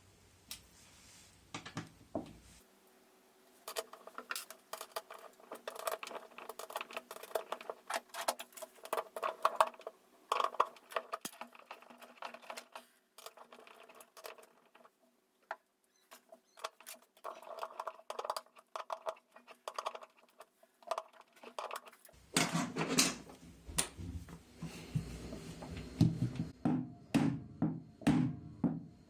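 Small clicks, taps and rattles of metal and plastic washing-machine parts being handled and fitted during reassembly. Heavier knocks come near the end, then a series of evenly spaced strokes about two a second.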